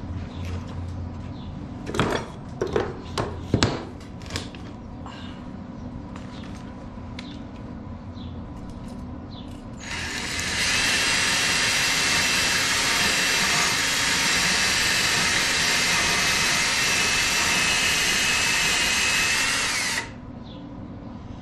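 A few sharp knocks, then the Forney FC125 flux-core wire welder's arc running steadily for about ten seconds as a bead is laid, with the machine on its lower sheet-metal setting. The arc is the loudest sound and cuts off abruptly.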